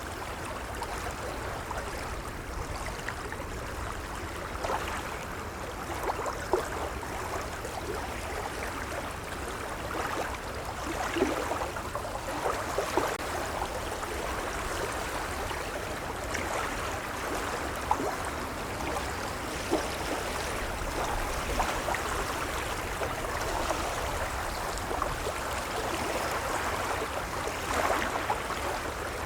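Gentle waves lapping: a steady wash of water with small splashes now and then.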